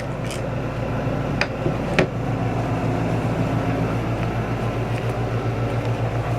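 Steady low mechanical hum with a slight regular pulse, and a few light knocks about one and a half and two seconds in.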